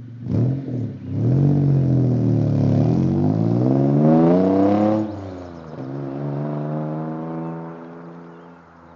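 Exhaust of a 1995 Mitsubishi 3000GT SL's 3.0-litre V6, running with a downpipe, cat delete and Thrush glasspack. The engine gives one quick blip, then climbs steadily in revs for about four seconds, drops back, rises again more briefly and settles back towards idle.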